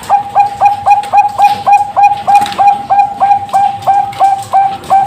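Bangkok-line zebra dove (perkutut bangkok) singing: a fast, even run of short coo notes, about three a second.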